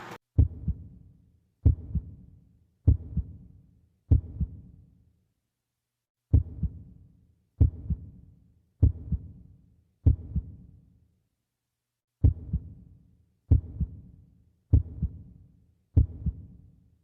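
Heartbeat sound effect: low lub-dub double thumps about one and a quarter seconds apart, in three runs of four beats with short pauses between the runs, and silence between the beats.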